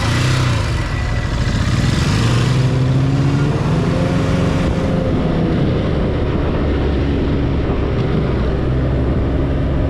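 Motorcycle engine running at low speed, its pitch rising briefly a few seconds in and then holding steady.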